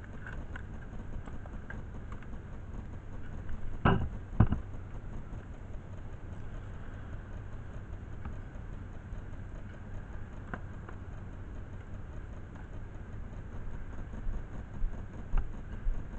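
Engine idling steadily, with two loud knocks close together about four seconds in and a few faint clicks.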